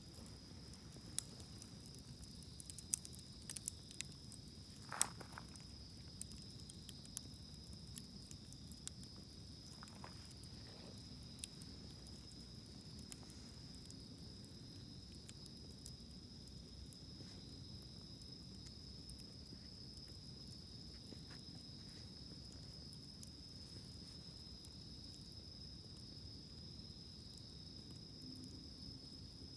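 Wood campfire crackling, with sharp pops clustered in the first dozen seconds and sparse after, over a steady high trill of insects.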